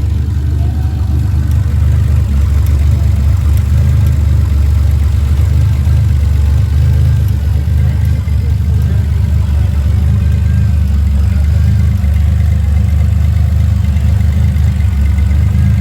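Car engine idling steadily, a loud, even, low-pitched running sound with no revving.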